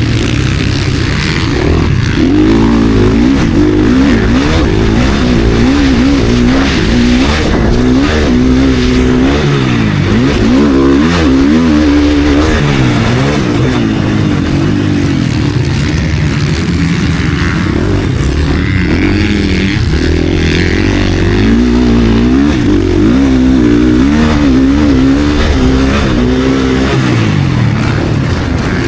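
KTM SX-F four-stroke single-cylinder motocross bike engine at race pace, revving up and falling back again and again as the throttle is worked and gears change.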